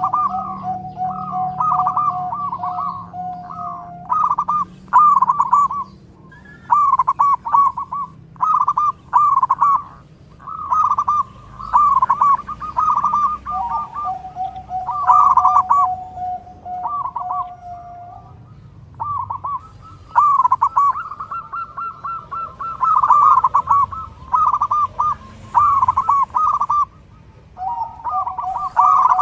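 Zebra doves (perkutut) cooing: rapid trilled phrases repeated over and over with short pauses, with a steady lower note held underneath for a few seconds at a time.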